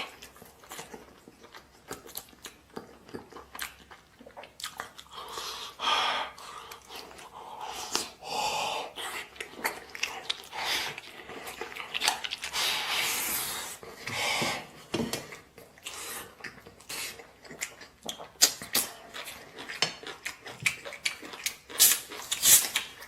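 A man chewing and eating chunks of stewed pork rib meat close to the microphone: irregular wet smacks and clicks, coming quicker and sharper in the second half.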